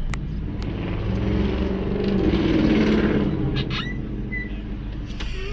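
Car engine and road noise heard from inside the cabin as the car drives off, swelling louder for a couple of seconds, then easing.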